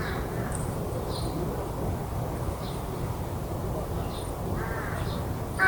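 A crow caws about four and a half seconds in, and again louder right at the end, over faint, scattered high chirps of small birds and a steady low background rumble.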